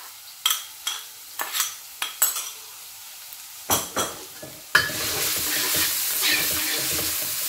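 Spoon and metal wok spatula clinking and scraping as ginger and garlic go into a wok. Then, a little under five seconds in, a sudden loud steady sizzle starts as the ginger and garlic fry in hot oil and are stirred.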